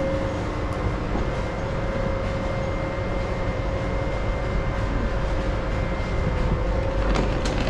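Train running: a steady low rumble and hiss with a constant whining tone, and a few light clicks near the end.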